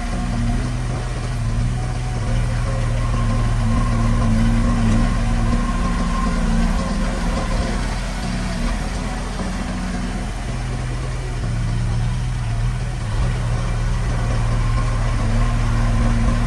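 Diesel engine of heavy construction machinery running steadily, its note shifting a little now and then as the load changes.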